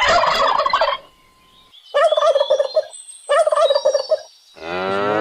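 Turkey gobbling three times in quick warbling bursts, each about a second long. Near the end a cow's long moo begins.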